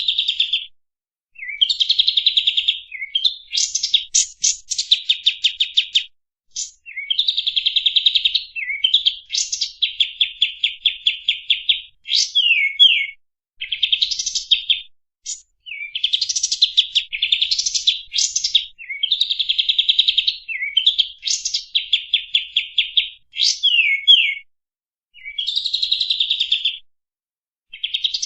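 Kapas tembak songbird singing: fast rattling trills and sharp chirps in phrases of one to two seconds, broken by short pauses. It is a masteran recording, the song played to caged birds to tutor them.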